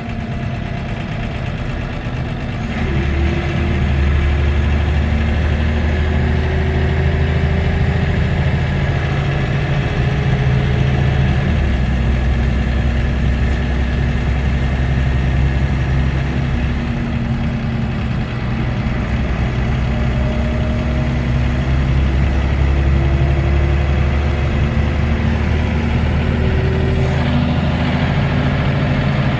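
Scania DC9 nine-litre five-cylinder diesel of a city bus under way, its engine note climbing in pitch twice: from about three seconds in to about twelve, then again from about nineteen seconds to near the end. A faint high whine rises along with it.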